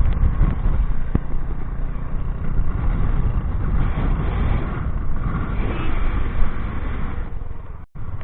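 Royal Enfield Hunter 350's single-cylinder engine running while the motorcycle is ridden along the road, under a steady rush of wind noise on the microphone. The sound cuts out briefly near the end.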